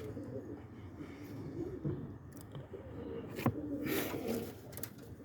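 Roller pigeons cooing in the loft, a low wavering murmur, with a single sharp click about three and a half seconds in and a brief rustle just after.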